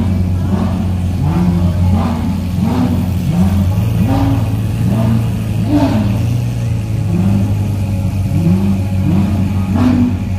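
Car engine revved over and over in short quick blips, each rising and dropping back, about three every two seconds, over the steady low drone of idling engines.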